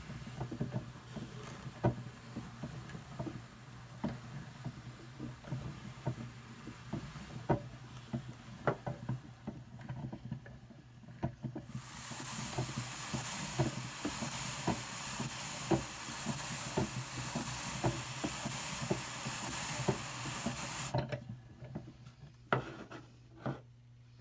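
Hand-cranked drum carder with fine carding cloth turning through wool, with repeated clicks of the crank and drums. For about nine seconds in the middle a loud, even rustling hiss of the carding teeth brushing through the fibre rises over the clicks, then it settles to a few scattered clicks.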